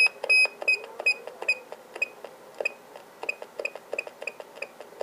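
A rapid, uneven run of short, high-pitched clicking beeps, about two or three a second, the first two loudest, from the CB radio and microphone under test.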